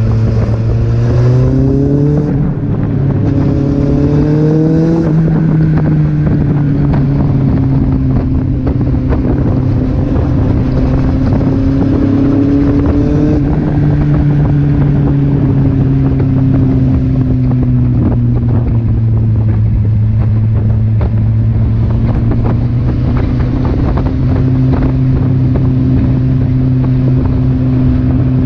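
Kawasaki Z800's inline-four engine pulling hard, revs climbing twice in the first five seconds with a gear change between, then cruising at a steady, slowly drifting pitch, with wind rushing over the microphone.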